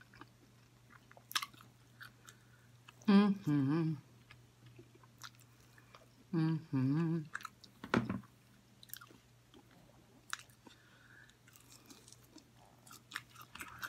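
Close-miked chewing and biting of sauced chicken wings, with wet mouth clicks and smacks throughout. Twice the eater makes a short wordless hum with a wavering pitch, the loudest sounds here, and there is a dull thud about eight seconds in.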